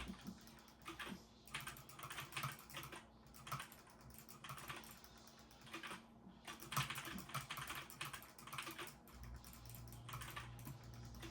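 Typing on a computer keyboard: an irregular run of quick key clicks with a couple of short pauses.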